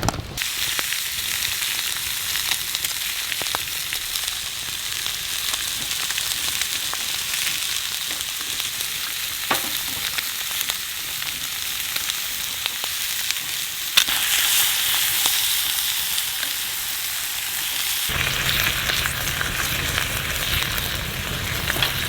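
Food frying and sizzling in a hot pan: a steady hiss with small scattered pops. About 18 seconds in, a low rumble joins it.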